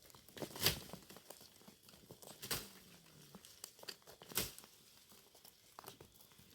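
Dry leaves and twigs crunching and rustling, with a sharp crunch about every two seconds and lighter crackles in between.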